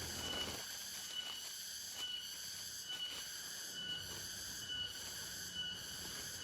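Rainforest insect chorus: a steady high-pitched buzzing of cicadas and crickets, with a short high chirp repeating about once a second. A low hum stops about half a second in.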